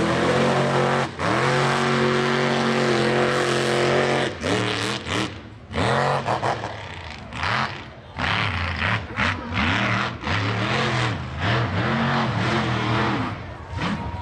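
Mega mud truck's engine at full throttle through a mud bog, held high for about four seconds, then revving up and down over and over as the throttle is worked, with brief drops in between.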